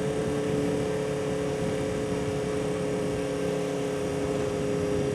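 1976 Honda CB400F's air-cooled inline-four engine running steadily on the road, its pitch holding level, on a bike just fitted with a new chain and sprockets and fresh oil.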